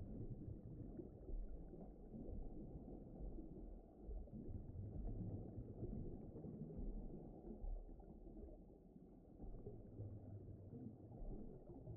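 Low, muffled rumbling noise that swells and fades irregularly, with almost nothing above a low pitch: a deep ambient rumble.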